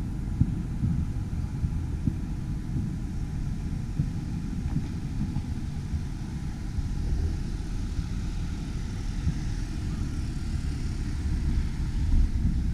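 Distant fireworks display heard as a low rumble of many irregular, muffled thumps. A car drives past in the second half, its tyre hiss swelling and fading.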